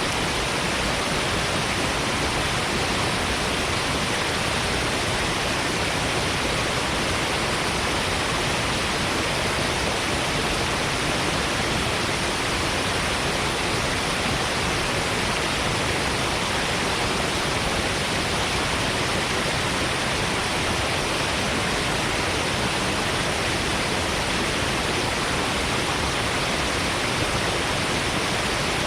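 Steady, unbroken rush of falling water from Shiraito Falls, a wide curtain waterfall of many thin streams spilling over a rock face, with a hiss strongest in the upper range.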